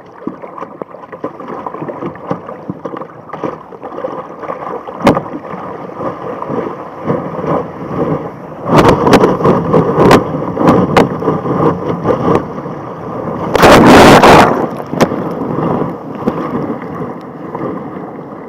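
Sea water rushing and sloshing around a kayak in surf, with splashes and knocks from about nine seconds in and one loud splash about fourteen seconds in.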